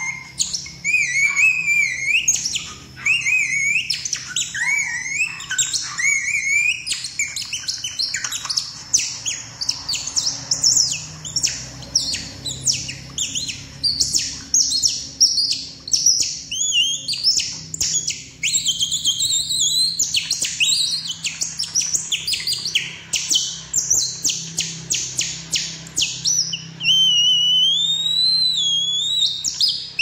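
Several birds singing and chirping at once, with rapid overlapping chirps, trills and sweeping whistles. Near the end a long wavering whistled song stands out.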